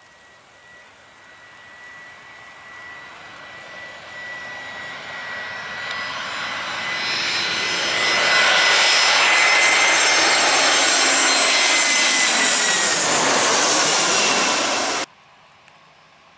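Airliner passing low directly overhead. Its engine whine grows steadily louder over about eight seconds and stays loud with high whining tones as it passes over. The pitch then drops just before the sound cuts off suddenly.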